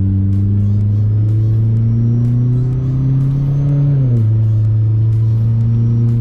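Straight-piped Volkswagen engine, mufflers cut off, running steadily at raised revs that climb slowly, then drops back to a lower steady speed about four seconds in.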